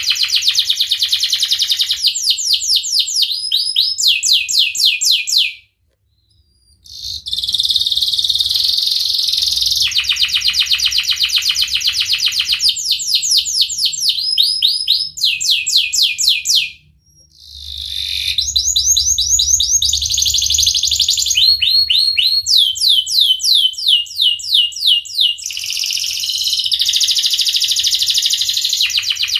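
Domestic canary singing: fast rolling trills of rapidly repeated high notes, switching to a new phrase every second or two. The song breaks off briefly twice, about six and seventeen seconds in.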